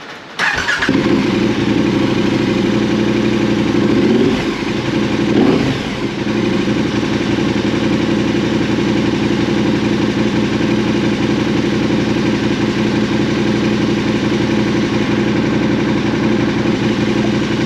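KTM 1290 Super Adventure's V-twin engine starting on a freshly fitted lithium battery. It catches after a brief crank, the revs rise and fall twice a few seconds in, then it settles to a steady idle.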